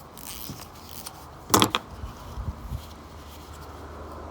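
Small metal parts of a lawn mower carburetor handled as it is taken apart: a brief scrape, then a quick cluster of sharp metallic clicks about a second and a half in, the loudest sound, followed by a few soft knocks.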